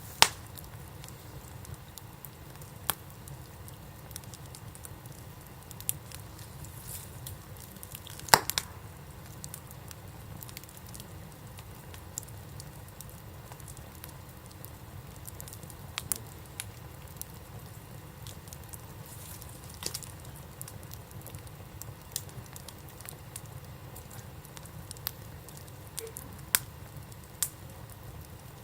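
Wood campfire burning: sharp crackles and pops every few seconds over a low steady rumble, the loudest pops right at the start and about eight seconds in.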